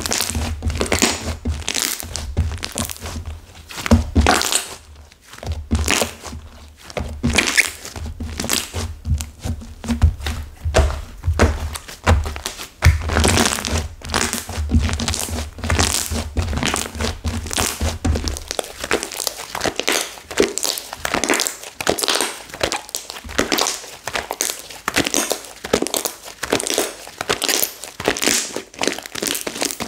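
Slime with hardened clay mixed into it being squished and pressed by hand, giving a dense run of crackly, crinkly pops and dull thunks. A low hum underneath stops about two-thirds of the way through.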